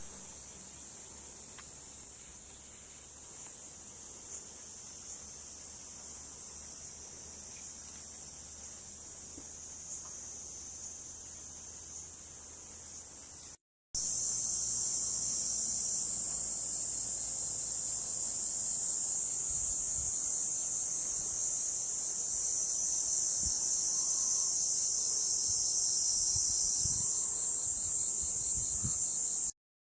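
A steady, high-pitched insect chorus shrilling outdoors. It breaks off briefly about halfway through and comes back louder.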